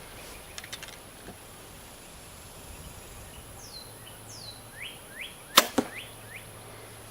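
A bow shot: a sharp snap of the bowstring on release about five and a half seconds in, followed a split second later by a weaker thud of the carbon arrow striking the foam 3D target.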